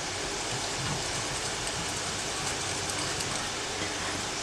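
Egg and buttermilk batter being stirred in a bowl: soft, irregular light ticks and swishes over a steady hiss.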